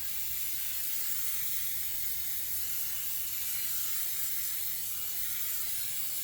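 Aerosol can of brake cleaner spraying in one long, steady hiss that cuts off suddenly at the end, washing gunk off an engine's rear main seal area.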